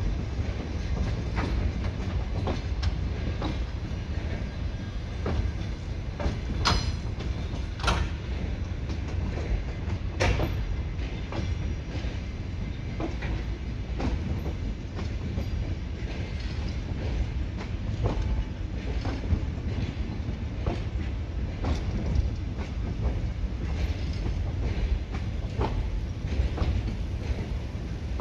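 Old electric-train cars being hauled slowly past by a locomotive: a steady low rumble of rolling wheels, broken by irregular sharp clacks and clanks.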